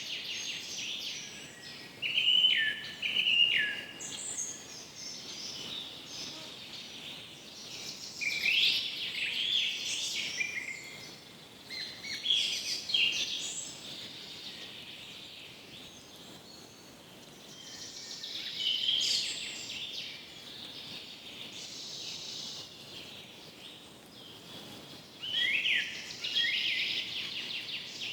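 Forest birds singing and calling, several phrases of chirps and trills coming and going every few seconds over a faint steady background hiss.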